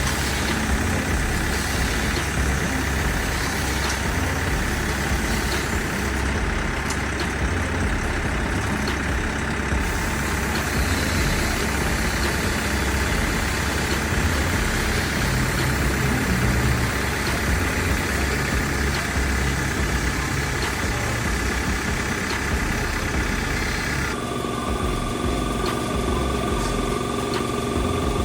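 A truck engine idling with a steady low rumble. About 24 seconds in the sound changes: the hiss above it drops away and a few steady tones come in.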